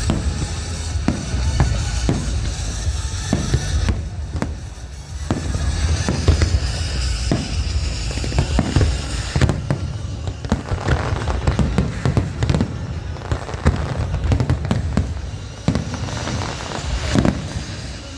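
Fireworks display: many sharp bangs in quick succession with crackling and a low rumble, with music playing underneath.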